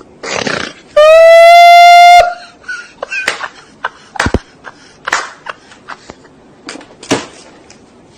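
A loud, horn-like blast at one steady pitch, lasting just over a second and cutting off sharply, with a slight rise at the start. Scattered short clicks and knocks come before and after it.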